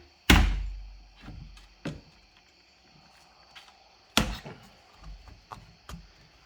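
Sharp knocks on metal: a loud blow just after the start and another about four seconds in, each dying away with a low ring, with lighter taps between. These are blows against a stuck part on a Ford Ranger fuel pump assembly, struck to break it loose.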